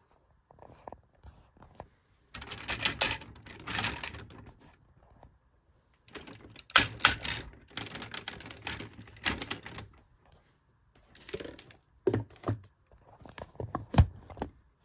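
Hard plastic toy robot parts being handled and clicked together in three bursts of rapid clattering clicks, with one sharp snap near the end.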